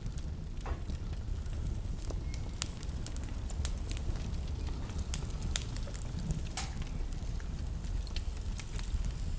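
Wood fire burning in a fireplace: a steady low rumble under irregular sharp crackles and pops, one louder pop about two-thirds of the way through.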